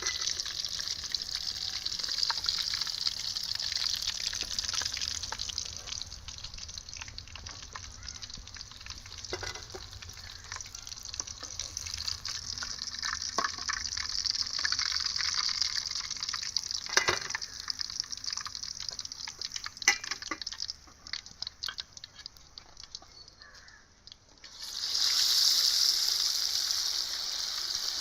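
Quail frying in a pan, a steady sizzle with scattered clicks of a utensil stirring against the pan. The sizzle thins out for a few seconds near the end, then comes back louder.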